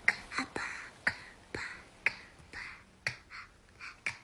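Finger snaps keeping a steady beat, about two a second, with short hissing sounds between the snaps.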